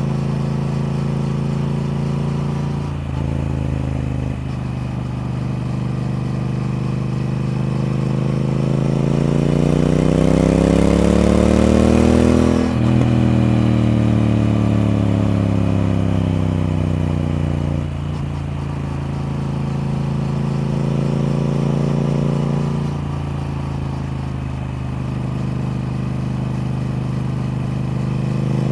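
Triumph Speed Twin parallel-twin motorcycle engine under way: revs climb steadily for about eight seconds, cut off suddenly about halfway through as the throttle closes, fall away for several seconds, then settle into steadier running with a brief rise and fall near the end.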